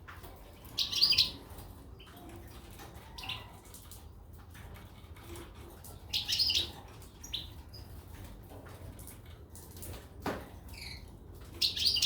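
Small finches, goldfinches and canaries, giving short high chirps every few seconds, the loudest about a second in.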